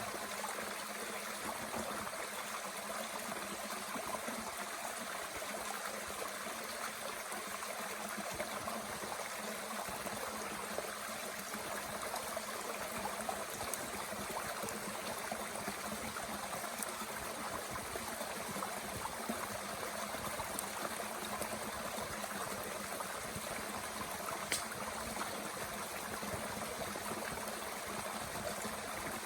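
Mountain stream running steadily, with occasional small crackles from a wood fire burning in a Bush Box stove, one sharper pop about 24 seconds in.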